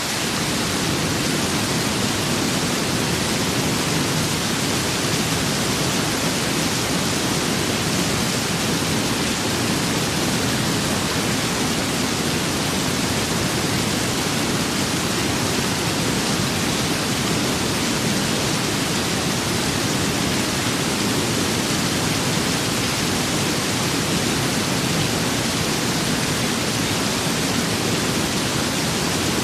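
Steady rain with wind: a dense, even wash of noise with no single drops, gusts or thunder standing out.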